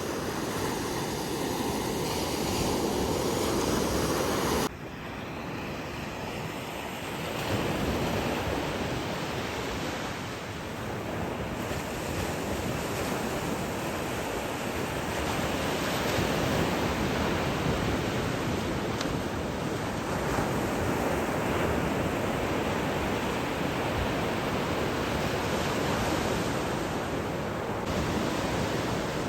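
Gulf of Mexico surf washing onto a beach: a steady rush of breaking waves. The level drops suddenly about five seconds in, where one clip gives way to another.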